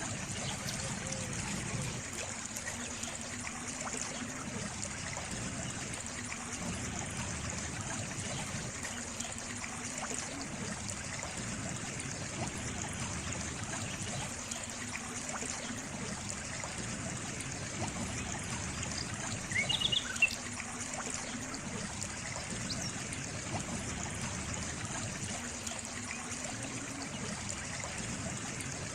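Water trickling steadily in a small stream, its flow swelling gently every few seconds. A few short high chirps come about two-thirds of the way through.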